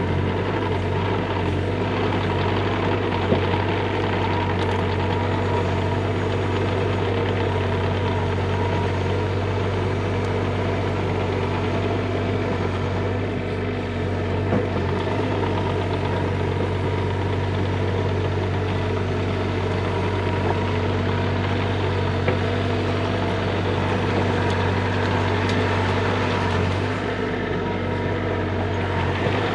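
Bobcat E35 mini excavator's diesel engine running steadily at a constant speed, with a strong low hum.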